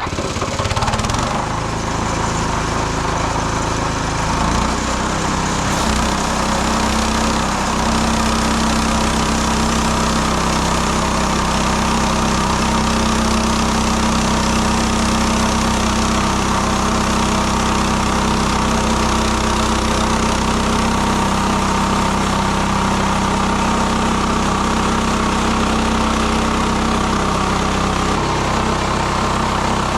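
Sawmill engine brought up from idle and then running steadily at speed.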